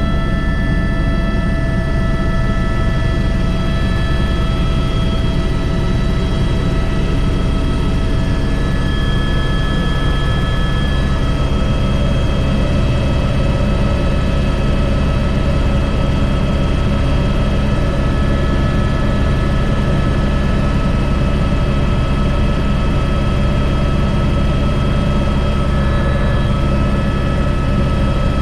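Airbus H125 (AS350 B3) helicopter in flight, heard from the cockpit: a steady low rotor and engine rumble with several thin, steady turbine whine tones above it.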